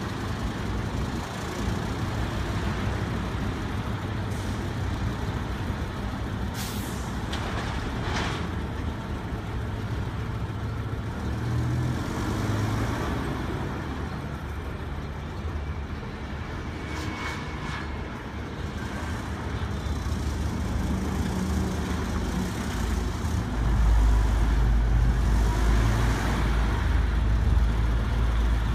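Isuzu concrete mixer truck's diesel engine running steadily, with a few short hisses. About three-quarters of the way through, a deep low drone becomes much louder.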